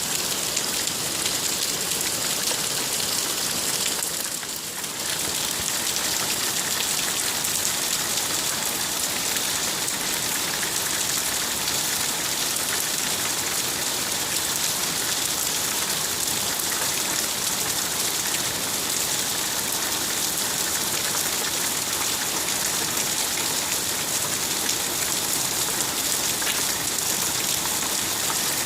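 Steady heavy rain falling, a dense even hiss, briefly softer a little over four seconds in.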